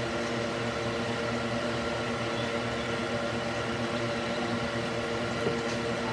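Electric cooling fan mounted in a wooden box, running steadily: an even whoosh of moving air with a steady hum of several fixed tones.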